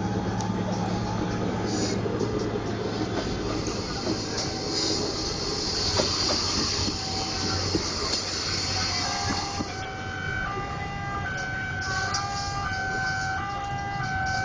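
Prameks diesel commuter train passing close by over a level crossing, its running gear rumbling on the rails with a loud rushing hiss. About ten seconds in, the train noise drops away and the crossing's electronic warning alarm is heard, two tones alternating steadily.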